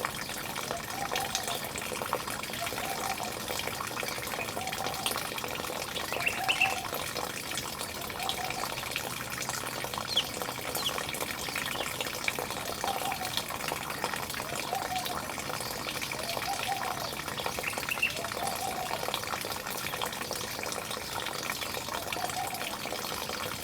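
Steady rush of running water, with a bird repeating a short low call about every one and a half to two seconds and a few sharper, higher chirps now and then.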